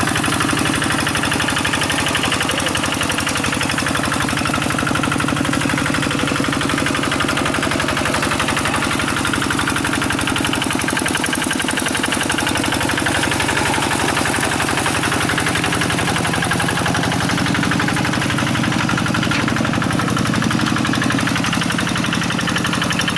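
Quick G1000 hand tractor's diesel engine chugging steadily at an even speed, with a fast, regular knock.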